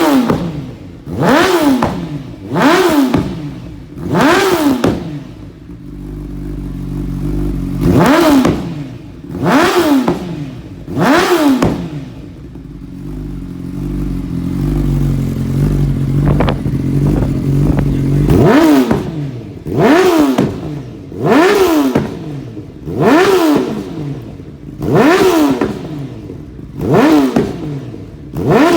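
Honda CBR1000RR SP's inline-four engine, on a full Akrapovic Evolution exhaust system, blipped repeatedly while stationary. It gives quick sharp revs about every second and a half, each rising and falling in pitch, with two stretches of lower steady idle between the runs of blips.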